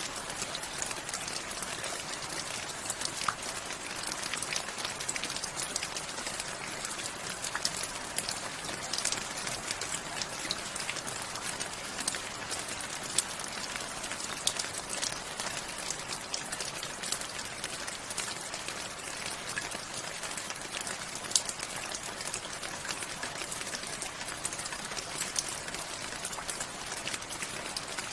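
Steady rain falling, an even hiss with many sharp drop clicks scattered through it.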